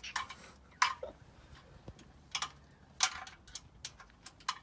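A series of irregular sharp clicks and taps, about six over four seconds, against a quiet background.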